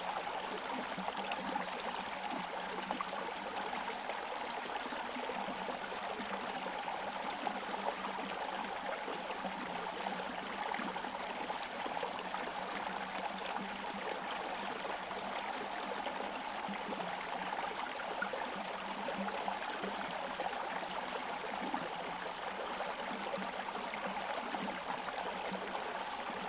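Forest stream flowing over a partly frozen bed, a steady rushing and gurgling of water.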